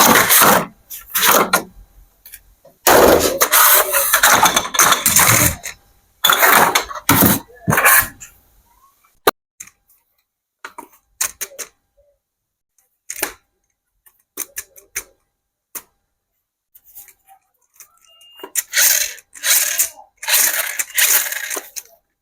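Handling of toy packaging during an unboxing: irregular bursts of crinkling and rustling, with scattered sharp clicks and snaps in the quieter middle stretch.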